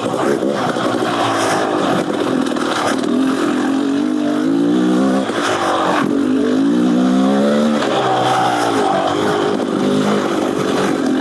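Beta Xtrainer 300 two-stroke dirt bike engine, fitted with an FMF Gnarly exhaust, being ridden hard off-road. The revs rise and fall again and again as the throttle is worked.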